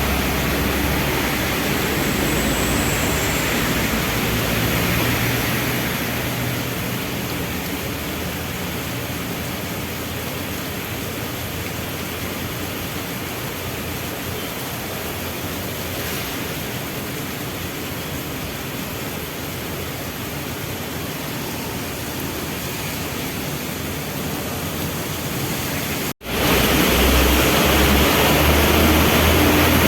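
Steady rain falling, with a low vehicle engine rumble underneath in the first few seconds. Near the end the sound cuts out for a moment, then returns louder, the rain joined again by a low engine rumble.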